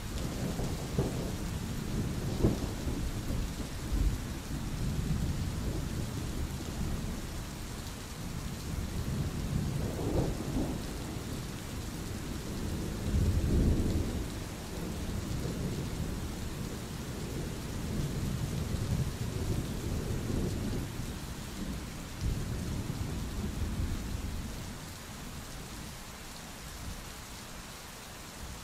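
Steady rain with rolling thunder. Low rumbles and a few sharp cracks come and go, the heaviest roll about halfway through, and the rumbling dies down near the end.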